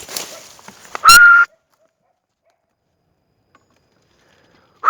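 Rustling through dry brush, then about a second in a single loud, high-pitched bark from a hunting dog baying an armadillo it has cornered.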